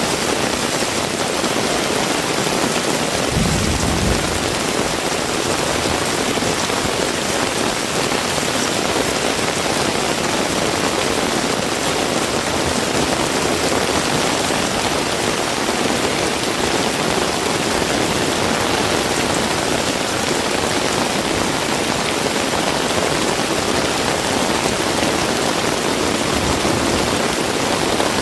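Heavy rain falling steadily and hard on surfaces. A brief low rumble comes about three seconds in.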